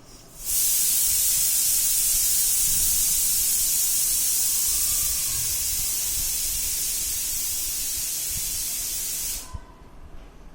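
A loud, steady hiss, strongest in the high pitches, like steam or a spray. It starts about half a second in, eases off slightly midway, and cuts off abruptly near the end.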